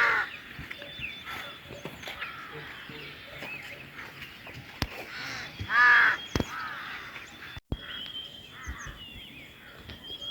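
A bird calling: a loud call right at the start and another about six seconds in, with fainter calls between them. A thin, steady high tone joins about halfway.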